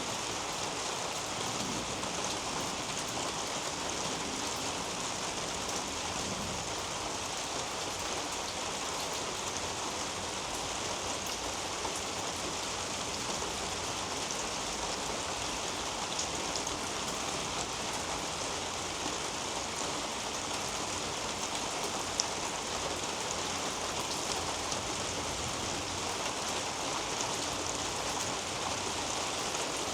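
Steady rain falling on a roof and through garden leaves, an even hiss with many small drop ticks. One slightly sharper drip stands out about two-thirds of the way through.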